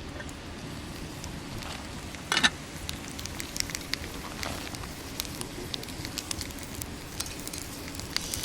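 Wood fire crackling in a small Picogrill-style fire pit, with irregular sharp pops and one louder snap a couple of seconds in.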